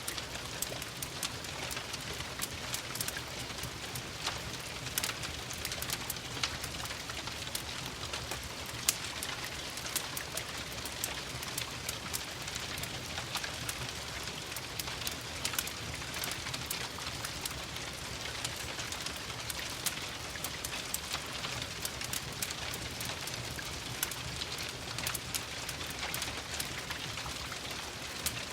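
Steady rain pattering, with scattered sharp crackles and pops from a wood fire in a fireplace.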